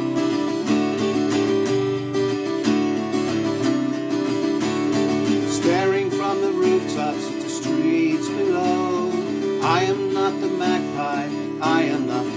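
Acoustic guitar strumming chords through a song's opening, with a singing voice coming in about halfway through.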